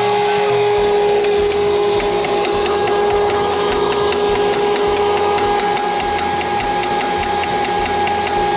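A small motor whining at a steady pitch, with faint regular ticking above it.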